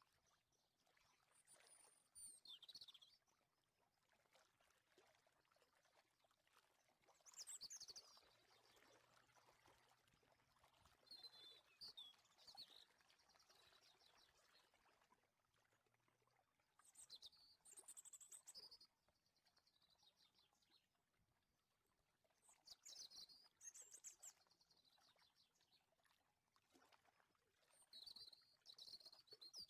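Quiet background with short bursts of bird chirping every few seconds: quick high gliding calls.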